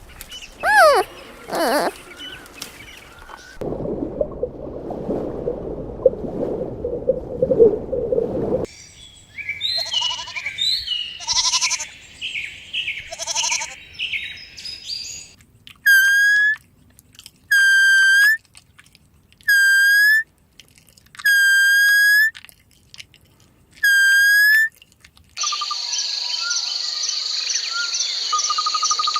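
A run of different animal calls one after another: rapid chirping, then five evenly spaced pitched calls about two seconds apart, then a steady high buzzing.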